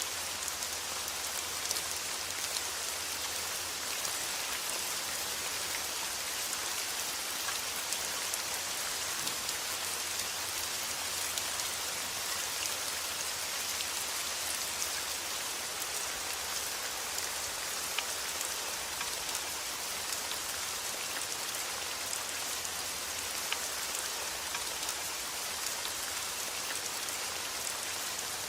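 Steady rain: a dense, even hiss of falling drops with single drops ticking through it, over a faint low rumble.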